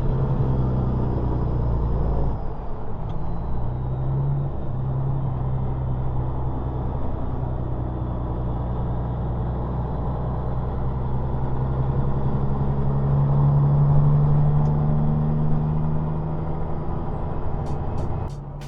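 Semi truck's diesel engine running as it drives, a steady low drone that dips briefly a couple of seconds in, then rises to its loudest about three-quarters of the way through.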